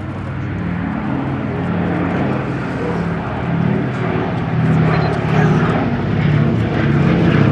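Boeing B-17 Flying Fortress's four Wright Cyclone radial piston engines droning in a low, layered hum as the bomber flies past, growing louder through the pass.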